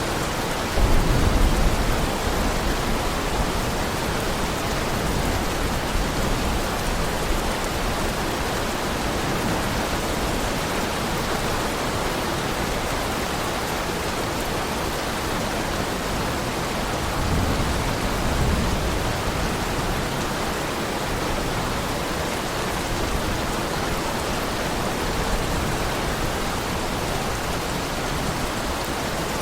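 Heavy rain falling steadily, with low rumbles of thunder: one about a second in, the loudest, and another about two-thirds of the way through.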